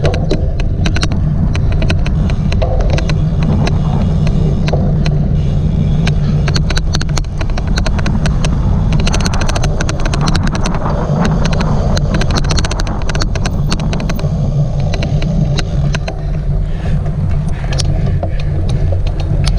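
Many sharp, irregular clicks from a cyclocross bike being ridden, over a steady low rumble of riding and wind noise on the microphone. The clicks come thickest around the middle and are an odd clicking whose cause is not known.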